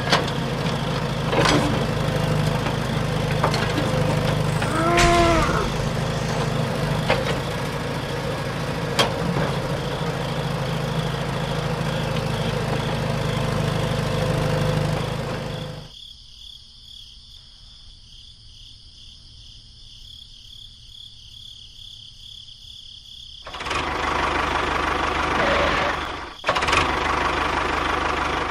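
A motor running steadily, then cut off abruptly about halfway through, leaving only a faint high steady hum. The motor sound returns near the end in two sections, with a short break between them.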